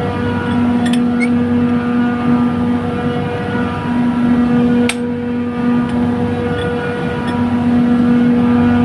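Trane chiller compressor running with a steady hum and a strong steady tone, with a few sharp ticks about a second in and about five seconds in. This is the abnormal noise from the compressor's discharge valve side, where gas is bypassing.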